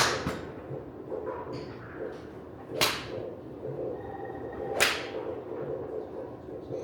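Golf clubs striking balls on a driving range: three sharp cracks of club-face impact, a few seconds apart.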